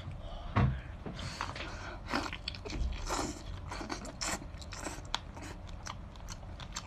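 A person eating sauce-dipped lobster meat close to the microphone: wet chewing and lip smacking with many small clicks, and one louder thump about half a second in.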